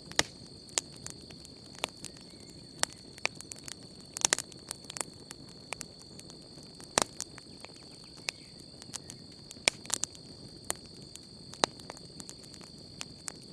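Wood campfire crackling: sharp pops and snaps at irregular intervals, a handful of them louder, over a steady high insect trill.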